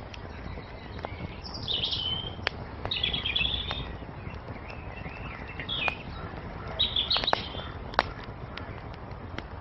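Songbirds singing short chirping phrases four or five times, over a wood fire crackling with sharp pops and a steady low hiss.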